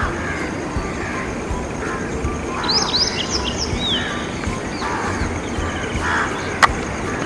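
Small birds chirping, with a quick run of short rising chirps about three seconds in, over a steady outdoor background. A single sharp click comes near the end.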